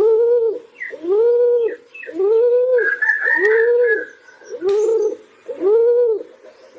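Pigeon cooing in a steady series, about one low, arched coo a second, with a higher call briefly over it near the middle.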